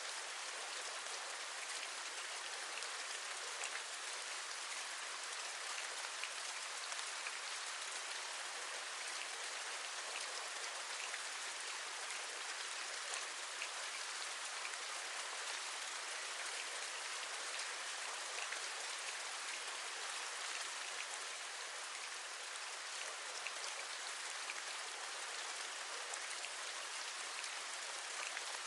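Steady rain, with many small individual raindrops tapping close by over the continuous hiss.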